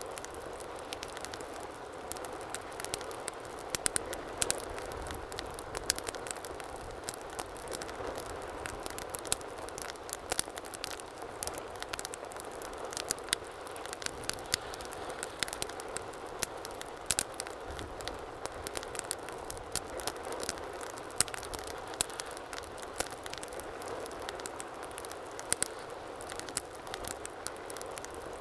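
Wood fire burning in a fireplace: a steady soft rush of flames with frequent irregular sharp crackles and pops.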